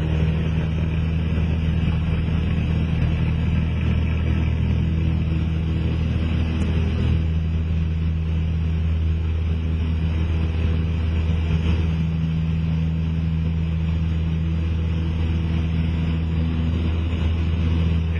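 Cessna 172SP Skyhawk's four-cylinder Lycoming engine and propeller running steadily at full takeoff power.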